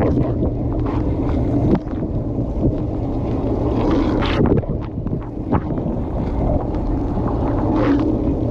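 Dishwasher wash cycle heard from inside the tub: water from the spray arms churning and splashing against the dishes and walls, a steady low rush with brief louder sprays every second or two.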